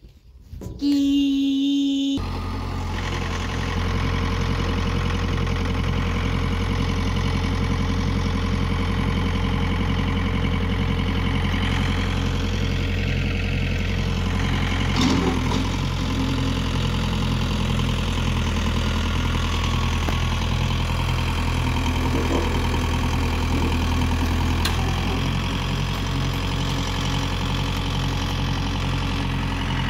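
Farm tractor engine starting about a second in, then idling steadily with an even rhythm.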